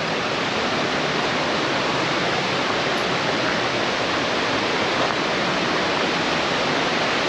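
Waterfall rushing: a loud, steady noise of falling water that swells slightly during the first second.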